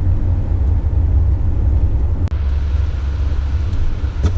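Steady low rumble of a 4x4's engine and tyres heard from inside the cabin while driving on an icy, snow-covered road, with a single sharp click a little past halfway.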